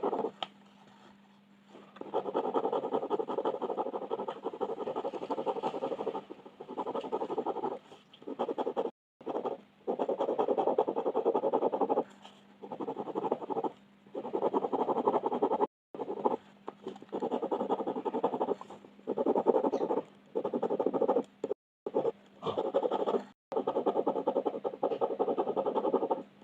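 Coloured pencil shading on paper: bouts of rapid back-and-forth scratching strokes, each lasting one to four seconds, separated by short pauses. A faint steady low hum runs underneath.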